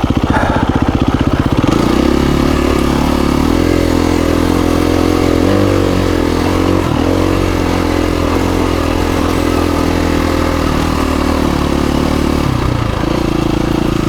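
KTM 350 EXC-F single-cylinder four-stroke dirt bike engine, chugging at low revs at first, then picking up about two seconds in and running at higher revs under load as the bike is ridden. The throttle varies so the pitch wavers, with a short drop and recovery near the end.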